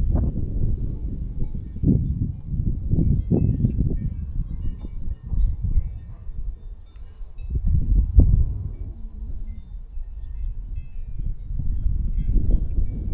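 Gusty wind buffeting the microphone in uneven swells, with a faint steady high-pitched trill running underneath.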